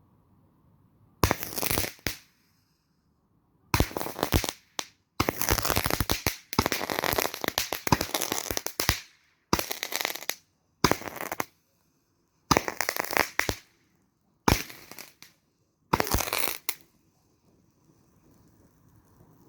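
Roman candle firing a string of around ten shots, each a sharp pop followed by a fizzing hiss, about a second or two apart, with several running together in the middle.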